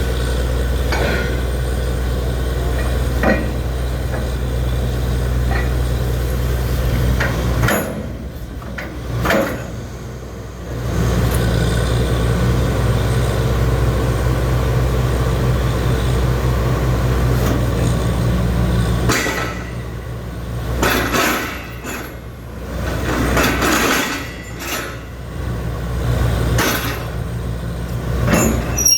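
Borewell drilling rig's engine running steadily, with sharp metal-on-metal clanks as the rig is set up. The engine hum drops away about a quarter of the way in, returns a few seconds later, and drops away again about two-thirds through, leaving the clanking.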